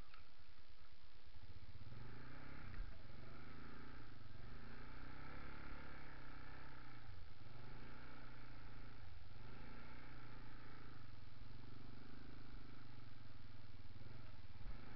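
Honda ATV engine running, its pitch swelling and falling again about every two seconds.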